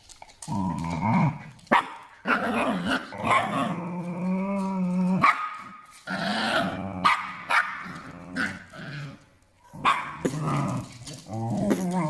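Dog growling and barking in play, in a string of calls with one long held growl about four seconds in.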